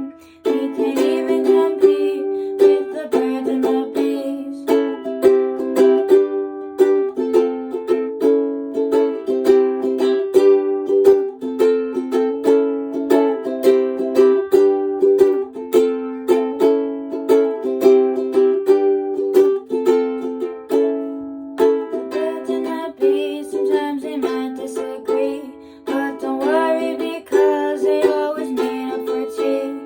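Acoustic string instrument, most likely a ukulele, strumming chords in a steady rhythm through an instrumental passage of a song, with no singing.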